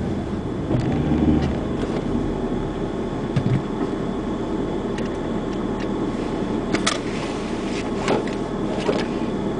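Car engine idling, heard from inside the cabin as a steady low rumble with a few brief clicks.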